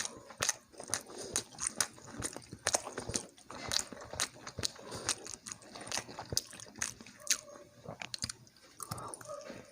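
A person eating close to the microphone: chewing with wet, clicking mouth sounds, several a second at an uneven pace.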